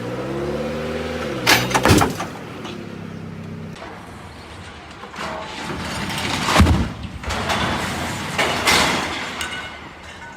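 Car engine running, its pitch swinging up and down, with sharp knocks about a second and a half to two seconds in. Engine and road noise carry on, with louder thumps near six and a half seconds and near nine seconds.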